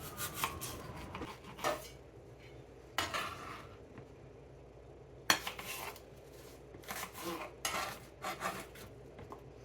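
Kitchen utensils and dishes clattering during food preparation: scattered sharp clacks and knocks at an irregular pace, the loudest about five seconds in and a quick run of them near the end.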